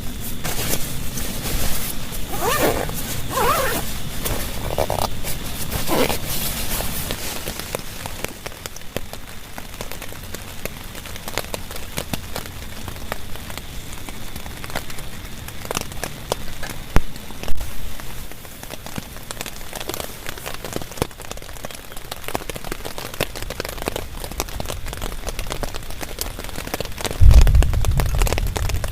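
Heavy rain falling, with many drops pattering and ticking on a nearby surface. A few short squeaky sounds come in the first several seconds, and a deep rumble sets in near the end.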